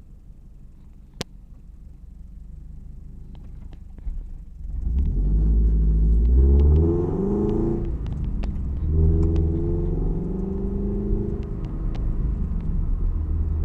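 Toyota 86's FA20 flat-four boxer engine through aftermarket unequal-length headers and exhaust, with a rumble. It runs low and quiet at first, then about a third of the way in it accelerates with a rising note, drops off briefly as if for a gear change, and pulls up again before settling into a steadier run.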